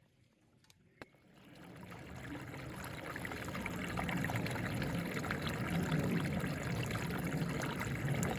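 Water running or pouring in a steady flow, starting after two light clicks about a second in and building up over a few seconds.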